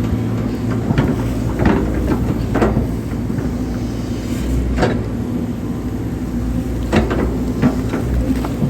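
Hydraulic excavator's diesel engine running steadily, with a handful of sharp knocks and clunks from the digging work.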